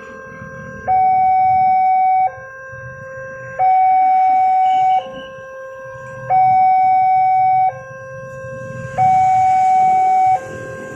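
Level-crossing warning alarm sounding its two alternating tones, a loud higher note and a quieter lower note, each held about a second and a half: the signal that a train is approaching and the barrier is closing or closed. A low rumble runs underneath.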